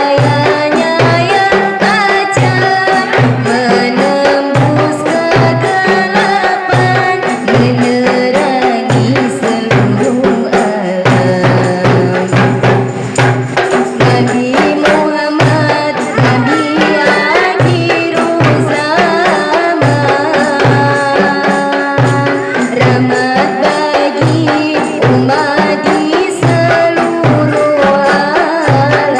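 Qasidah music: frame drums and tambourine jingles keep a steady beat under a wavering melody.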